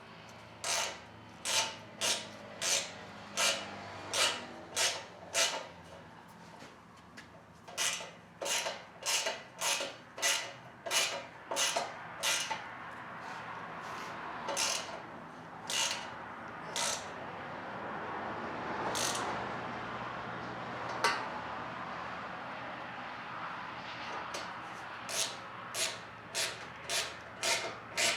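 Hand ratchet wrench swung in quick repeated strokes, each stroke a short burst of clicks, driving self-tapping bolts into metal. Partway through the strokes stop for a stretch of scraping and handling with one sharp click, then the ratcheting resumes near the end.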